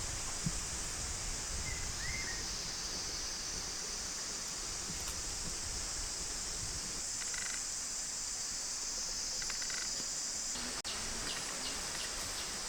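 Steady high-pitched chorus of insects in a forest, with a short bird chirp about two seconds in. Near the end the insect sound changes to a rapid pulsing.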